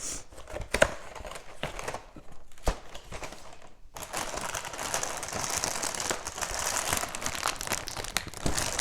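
Cereal box being forced and torn open: a few sharp cardboard snaps in the first seconds, then steady crinkling and rustling of the plastic liner bag from about four seconds in.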